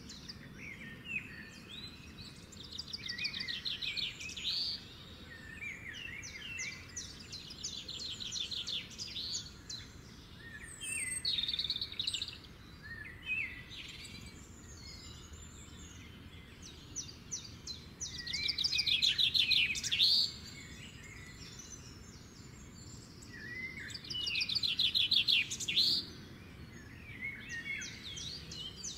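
Songbirds singing outdoors: one bird repeats a rapid high trill about two seconds long every few seconds, while other birds add shorter chirps and slurred notes in between.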